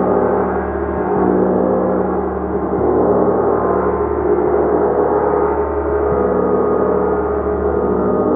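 Gong being played continuously: a dense, sustained wash of many overlapping ringing tones that swells and ebbs, refreshed by soft strokes every second and a half or so.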